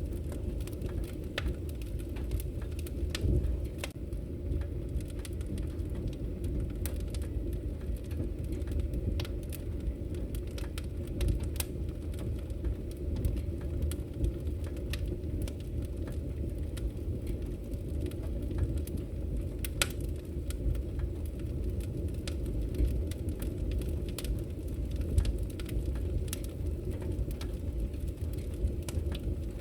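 Wood fire burning in a fireplace: a steady low rumble of flames with scattered crackles and pops from the logs, one sharper pop about two-thirds of the way through.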